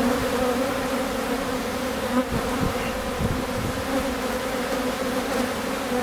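Many honeybees buzzing together in a steady, even hum.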